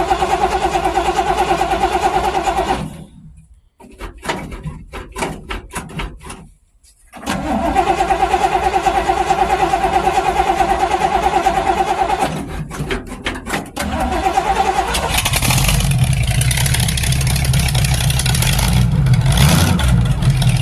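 Ford engine being cold-started. The starter cranks it with a steady pulsing whine for about three seconds, then stops with a few clicks. It cranks again for about five seconds, then in a few short bursts. About fifteen seconds in the engine catches and keeps running.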